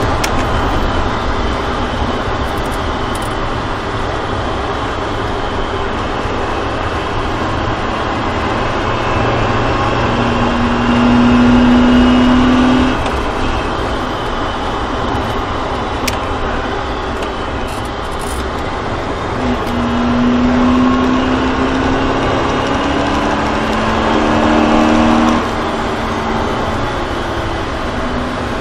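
BMW track car heard from inside the cabin at speed: a steady rush of engine, tyre and wind noise. Twice, about ten and twenty seconds in, the engine note climbs in pitch under acceleration and then cuts off suddenly.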